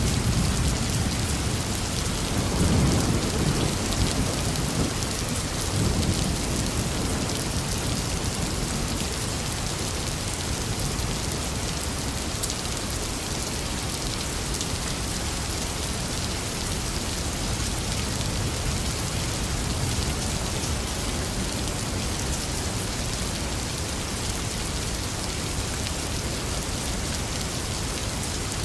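Steady rain falling and pattering on surfaces, an even hiss. A low rumble swells a few seconds in and fades again.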